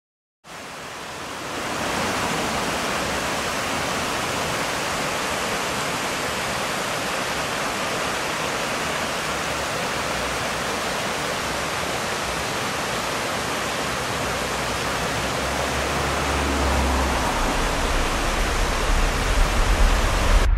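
A steady rushing hiss, with a deep rumble that builds from about three-quarters of the way in and grows steadily louder as a CSX train approaches.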